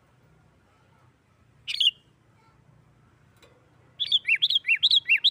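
Sooty-headed bulbul (kutilang) calling: one short sharp note about two seconds in, then from about four seconds a fast, loud run of repeated paired notes, each a high note followed by a falling lower one. This is the excited, rapid 'nggaruda' calling used to stir other bulbuls.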